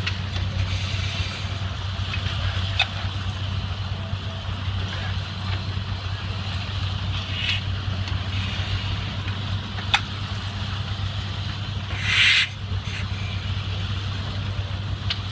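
Case 20-40 tractor's two-cylinder opposed engine running steadily, with a few sharp clicks and a short hiss about twelve seconds in.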